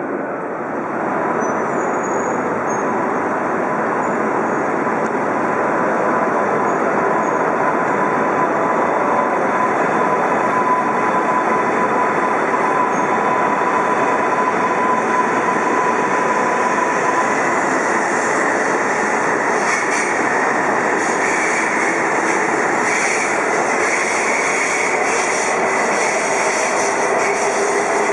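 Shinkansen bullet train running at a station platform: a steady rush of wheels on rail and air. A thin held whine sounds in the first half, and from about two thirds of the way in several whining tones slowly rise in pitch.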